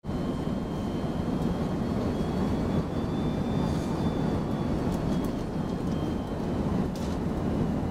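Jet engines of an Airbus A330-200 on approach: a steady rumble with a faint high whine over it.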